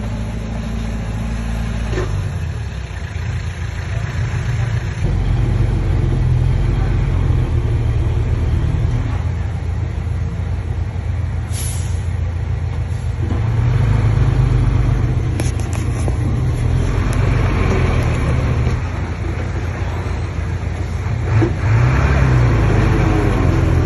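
Diesel engine of a Komatsu D20P bulldozer working under load as it pushes soil, its pitch and loudness rising and falling several times as the load changes. A short high hiss sounds once near the middle.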